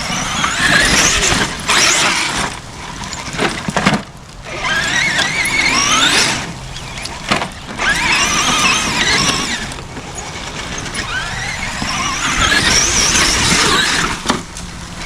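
Traxxas X-Maxx RC monster truck's electric motor whining in four throttle bursts, the pitch rising and wavering in each burst as it climbs a steep, loose hill.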